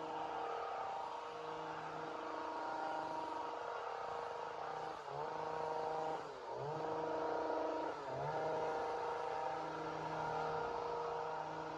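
Two-stroke chainsaw running steadily at high speed; its pitch sags briefly three times and then picks back up.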